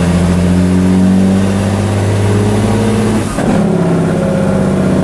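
Heavy truck's diesel engine pulling, its pitch climbing slowly, then dropping about three seconds in before it pulls again.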